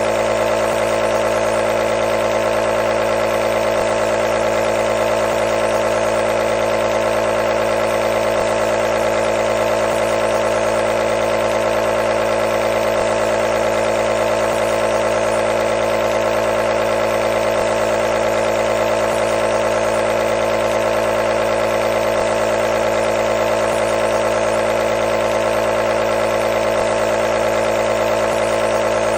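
Nebulizer's small air compressor running steadily with a constant buzzing hum.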